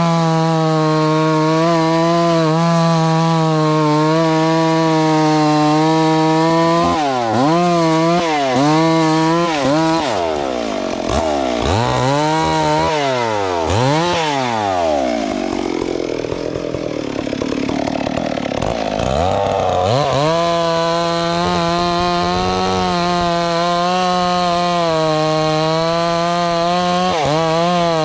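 Two-stroke chainsaw running at high speed with a steady, high engine note. Roughly a quarter of the way in, its pitch drops and climbs back several times in quick succession, and it then runs rougher and a little quieter for a few seconds before settling back to the steady high note.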